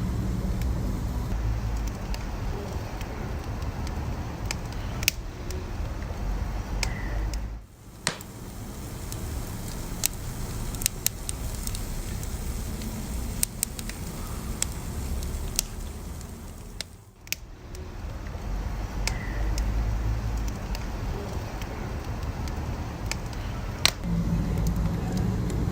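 Wood fire crackling, with scattered sharp pops over a low steady rumble; the sound dips briefly twice.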